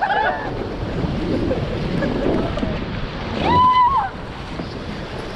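River water rushing, with wind buffeting the microphone, and a brief shouted call about three and a half seconds in.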